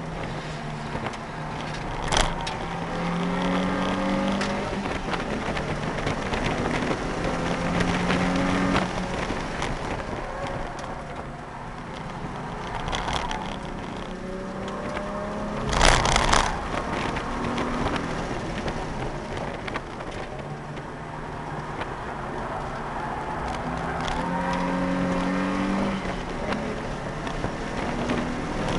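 Nissan 350Z's 3.5-litre V6 engine heard from inside the cabin while lapping a track. The engine note climbs in pitch under acceleration, drops, and climbs again several times. About sixteen seconds in there is a short, loud rush of noise.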